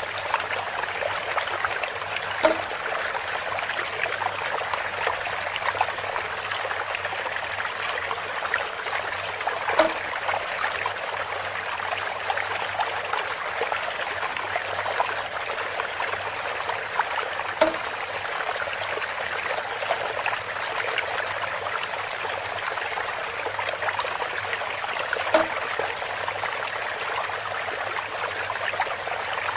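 Water trickling and splashing steadily through a bamboo water feature, with a hollow knock about every seven to eight seconds, four times.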